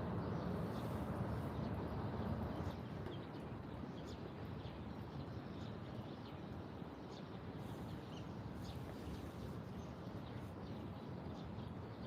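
Small birds chirping in short, scattered calls over a steady low background rumble, a little louder in the first few seconds.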